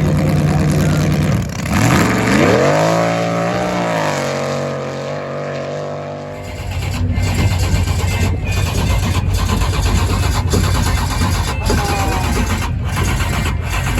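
Racing jet boat engines running loud: about a second and a half in the pitch rises as an engine revs up and holds high, and at about six and a half seconds the sound changes abruptly to a rougher, steady low rumble.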